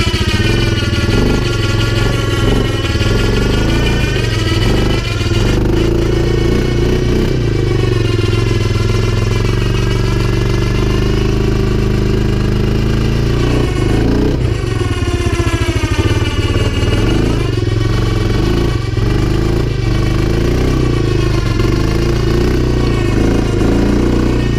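CFMoto 500 ATV's single-cylinder engine revving hard under load through mud. Its pitch rises and falls again and again as the throttle is worked.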